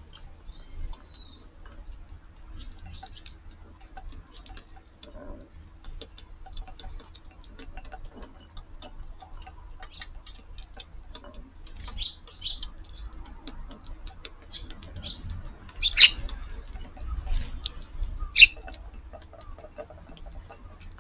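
Eurasian tree sparrows feeding: a steady scatter of short, high ticks and soft chirps, with a falling chirp about a second in and louder chirps about 16 and 18 seconds in.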